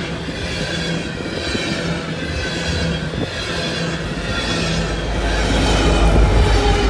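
Loaded coal train rolling past, its rear pushing locomotive, an EMD SD70ACe diesel, running under load in a steady rumble of engine and wheels that grows louder near the end.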